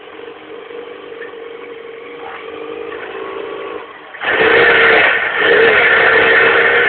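Engines running during an attempt to start a 100cc PRD go-kart by turning it over with a Suzuki 1000 motorbike. A steady engine tone slowly grows louder, then about four seconds in a much louder engine noise starts suddenly and carries on.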